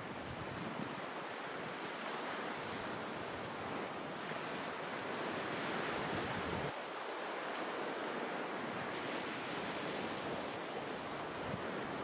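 Sea waves washing onto the shore in a steady surf hiss, with some wind noise on the microphone; the deep rumble drops away suddenly about two-thirds of the way through.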